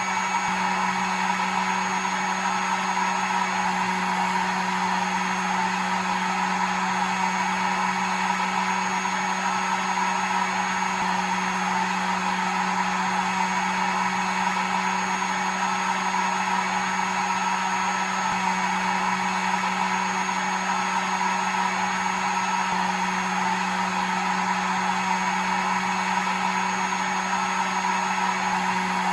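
Hair dryer running continuously: a steady blowing noise over a constant motor hum, with no change in speed.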